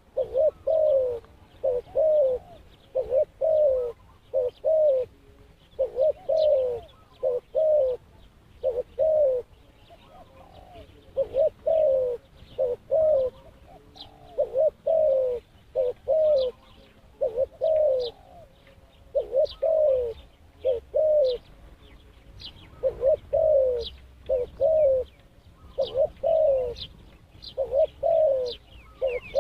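Dove cooing over and over, each coo a short downward-gliding note, grouped in quick runs of two or three. Faint high chirps of small birds sound between the coos.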